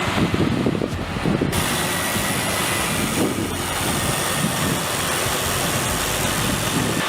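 Heavy vehicle engines running steadily. A steady hiss joins abruptly about a second and a half in.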